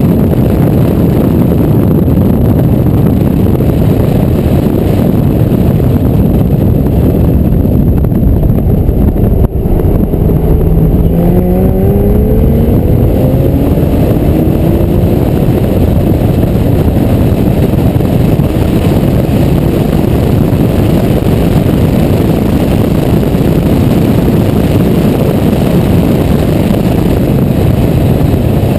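Porsche 911 GTS (991) at track speed, its 3.8-litre flat-six running under a loud, steady rush of wind on an exterior-mounted camera. About ten seconds in an engine note climbs steadily as the car accelerates.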